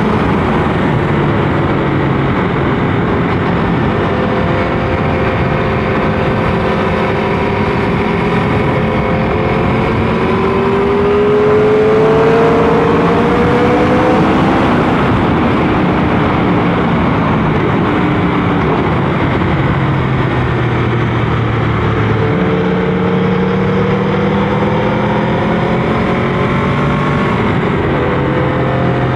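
Motorcycle engine heard from the rider's camera, its pitch climbing and dropping several times as it accelerates and eases off through the bends, over steady wind noise.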